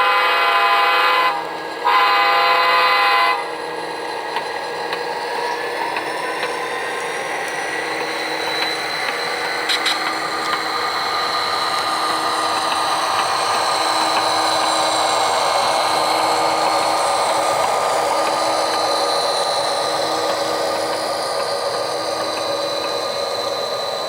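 HO scale model diesel locomotive's DCC sound decoder sounding two horn blasts, each just over a second long. The diesel engine sound follows, running steadily and slowly growing louder over the next ten seconds or so, with a rising whine and hiss.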